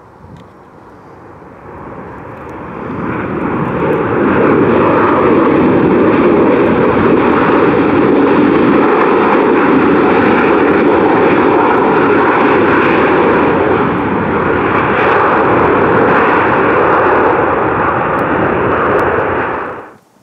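Boeing 737-800 airliner's CFM56-7B jet engines heard close by as it comes in to land. The sound builds over a couple of seconds to a loud, steady rush with a droning tone running through it, then cuts off abruptly near the end.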